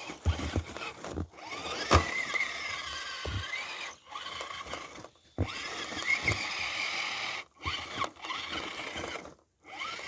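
Electric motors and gears of radio-controlled crawler trucks whining, the pitch rising and falling with the throttle, with a few knocks as the trucks bump over snow.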